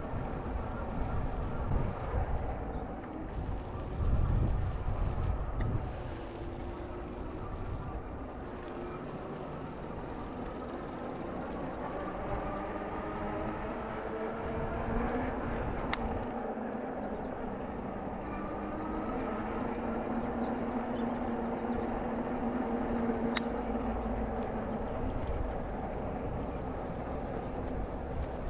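Wind buffeting the microphone in the first few seconds, then a steady motor drone whose pitch slowly rises and falls, with two sharp clicks near the middle and later on.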